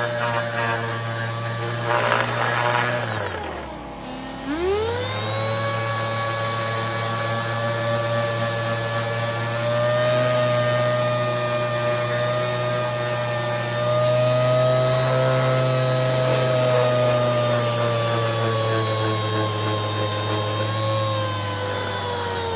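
Electric sander's motor running while sanding a steel axe head with fine-grit paper. The motor winds down to a stop about three seconds in, spins back up about a second later, and then runs steadily with slight drops in pitch as it is pressed against the metal.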